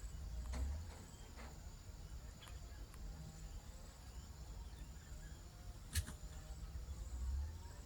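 Outdoor ambience: a steady, high-pitched insect trill over a low rumble, with one sharp click about six seconds in.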